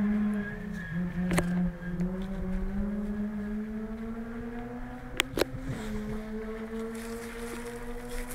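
Ford Fiesta R2 rally car's four-cylinder engine running at a distance, one steady engine note whose pitch climbs slowly and steps abruptly a few times. A few sharp clicks about a second and a half in and twice around five seconds in.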